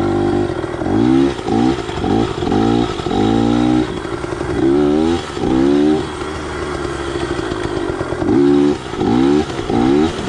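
Yamaha PW80 two-stroke pit bike engine with an FMF slip-on exhaust, revved again and again: each burst of throttle gives a rising whine that drops back, with a steadier held stretch a little past halfway before the bursts resume.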